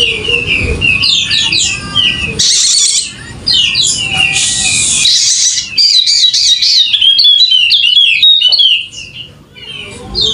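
Yellow-spectacled white-eye singing in fast, energetic runs of high chirping notes that slur quickly up and down. Harsher hissing notes come in twice in the first half, and the song eases off briefly near the end.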